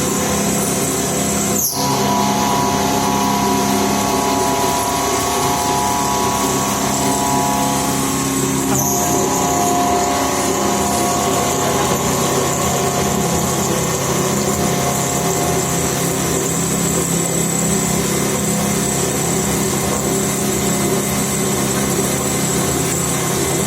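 CNC milling machine running steadily: a continuous mechanical hum with a high whine. The sound breaks briefly and its tones change about two seconds in and again about nine seconds in.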